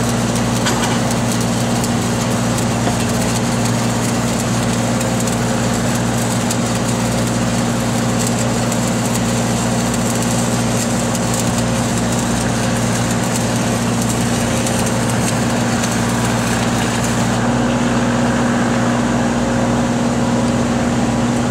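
Stick-welding arc crackling steadily during a fill or cap pass on pipe, over the steady drone of an engine-driven welding machine running. About 17 seconds in the crackle cuts off as the arc is broken, and the engine keeps running.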